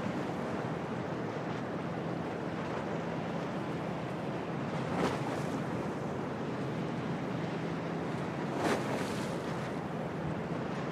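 Stormy harbour ambience: steady wind and choppy water, with a low steady hum underneath. Two brief splashes of waves hitting stand out, about five seconds in and near the end.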